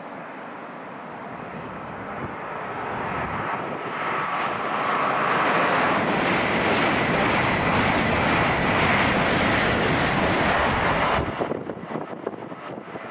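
Passenger train passing through a station at speed: a rush of wheels and air that builds to a loud peak and holds there, then drops away suddenly near the end as the train clears.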